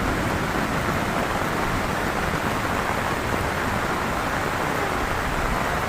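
Heavy rain falling steadily, an even hiss of drops hitting the ground and surfaces around.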